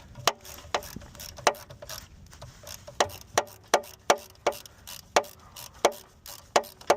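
Hand ratchet clicking as it runs in a starter mounting bolt: sharp single clicks in short strokes, about two or three a second.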